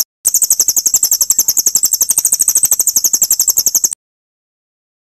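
A small songbird's rapid, high-pitched chirping trill of about ten notes a second, part of a tutor recording of bird calls for a white-rumped shama. After a brief break at the start, the trill runs evenly and then cuts off abruptly about four seconds in.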